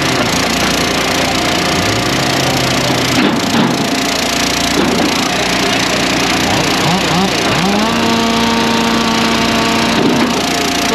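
Small gasoline engines of wood splitters running together at high volume. About eight seconds in, one engine's note rises and holds steady, the way an engine does as it takes up the hydraulic load.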